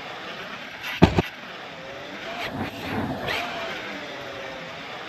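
Electric brushless motors of large-scale RC trucks whining as they rev up and down, with a sharp double knock about a second in, like a truck landing or hitting something.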